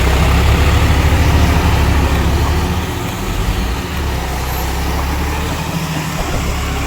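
John Deere 5405 tractor's diesel engine running loud and steady with a deep, rapidly pulsing rumble, easing slightly in level about three seconds in.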